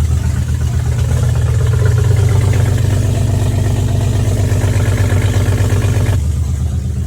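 BMW E46 engine with new headers running loud and pulsing, just after finally catching following many failed starts caused by a fuel supply problem. Its sound shifts slightly about six seconds in.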